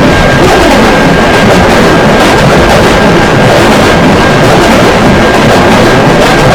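Train passing a railroad crossing, a loud, steady, overloaded roar with a thin high-pitched tone that holds throughout.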